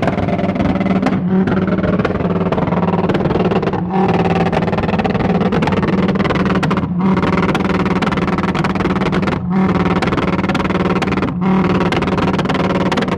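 A car engine and exhaust running loudly with a steady drone, broken by brief sharp gaps every two to three seconds.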